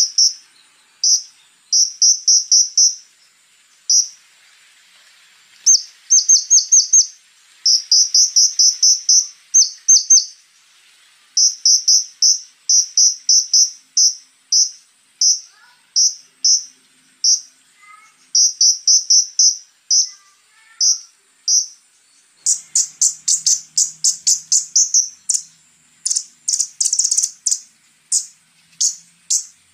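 Konin bird calling in rapid runs of short, high, sharp chips, with a faster, denser burst of chips a little after twenty seconds in. A steady high insect trill runs underneath.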